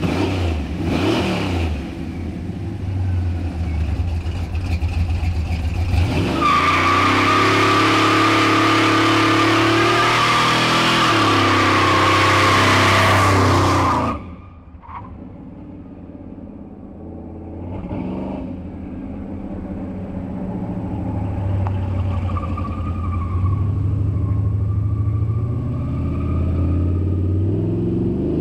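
1991 Chevy C1500 pickup doing a burnout: the engine revs, then about six seconds in the rear tyres break loose and screech loudly at high revs for about eight seconds before cutting off suddenly. The engine then drops back and revs up again.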